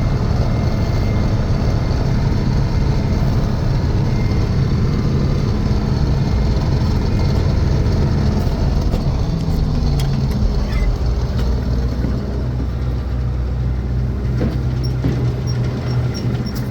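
Heavy farm machine's engine running steadily, its note dropping slightly and easing off about ten seconds in.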